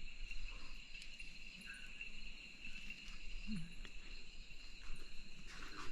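Night insect chorus: crickets trilling steadily and high-pitched, with a brief low call about three and a half seconds in.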